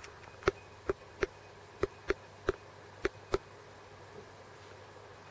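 A woodpecker pecking at its food, about eight sharp knocks in three seconds at an uneven pace, then stopping.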